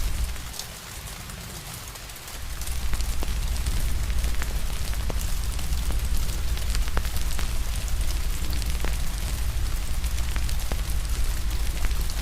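Steady rain hiss with a wood fire crackling in scattered sharp pops over a low rumble. The low rumble drops away briefly, from about half a second to two seconds in.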